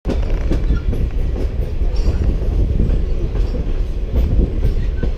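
Blue Ridge Scenic Railway excursion train running along the track: a steady low rumble with scattered wheel clicks and a few faint squeaks.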